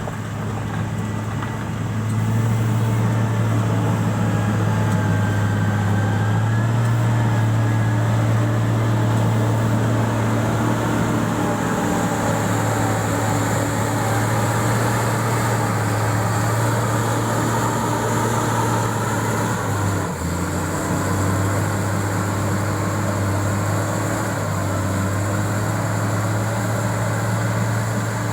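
Diesel engine of heavy road-building equipment running steadily under load, with a faint wavering whine above it. The engine note dips briefly about twenty seconds in and again a few seconds later.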